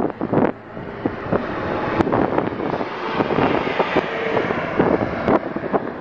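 Wind buffeting the microphone over a steady rush of passing road traffic, swelling a little about a second in.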